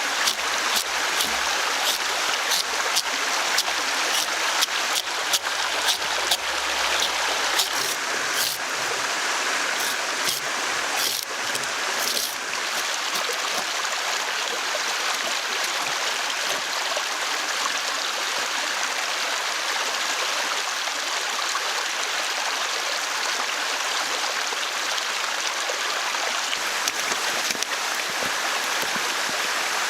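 Steady rushing of running water, like a forest stream. Scattered sharp clicks and knocks sound in roughly the first dozen seconds, then stop.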